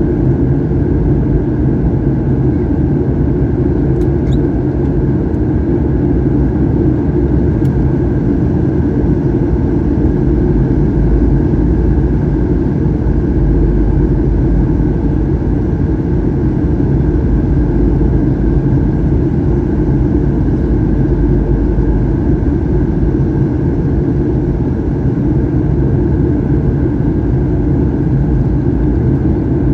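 Steady in-flight cabin drone of a Boeing 737-800, heard from a window seat: its CFM56 turbofan engines and the rush of air over the fuselage, a constant loud rumble with a few steady hums in it.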